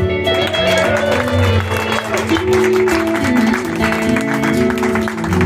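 Live band music: guitars, mandolin and bass guitar playing an instrumental passage, with a lead line that bends up and down in pitch.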